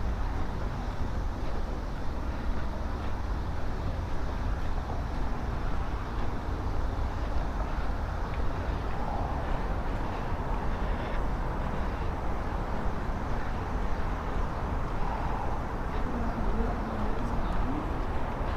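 Steady outdoor background rumble, heaviest in the low end, with faint distant voices coming through now and then.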